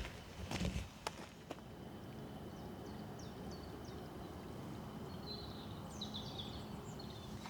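A few footsteps on a forest path in the first second and a half, then they stop. Small birds chirp in short, quick high notes over a steady low background hum.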